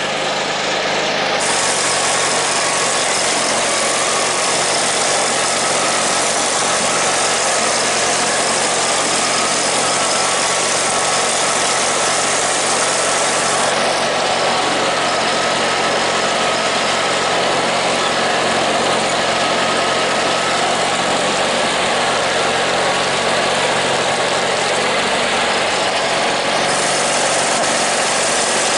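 Engine of a snow-clearing machine running steadily at constant speed.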